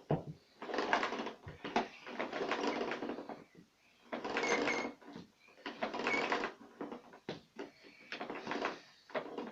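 Power cord of a Samsung vacuum cleaner being pulled out of its retractable cord reel in several pulls, with the reel whirring and rattling and clicking in between.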